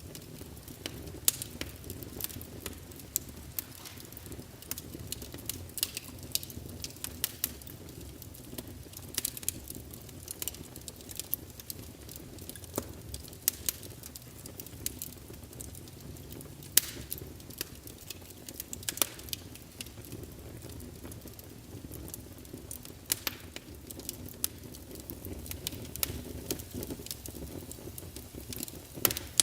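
Wood fire crackling in a fireplace: irregular sharp pops and snaps, a few louder than the rest, over a low steady rumble of the burning fire.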